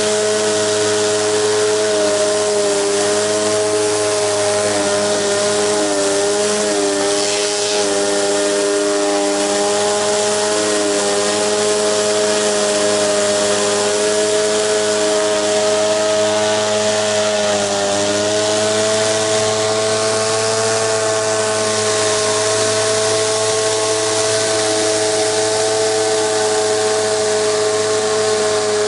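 Gas-engine pressure washer running steadily under load, its engine drone wavering slightly in pitch, over the constant hiss of high-pressure water spray.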